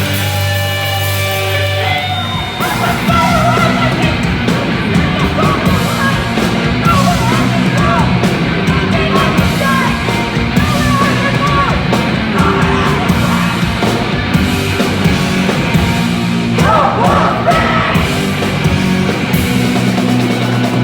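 Heavy, distorted rock music with a shouted lead vocal. A held guitar chord rings for about two seconds, then drums and the full band come in under the shouting.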